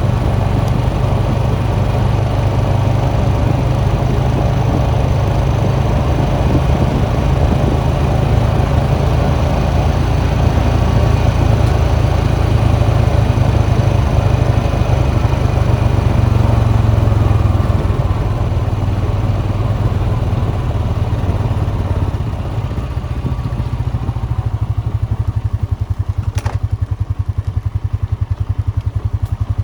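ATV engine running steadily under way. About two-thirds through it drops off, then runs on with an even, pulsing beat.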